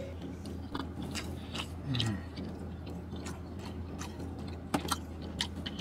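A person chewing a mouthful of thin-crust pizza with small wet mouth clicks, and a brief low hum of the voice about two seconds in.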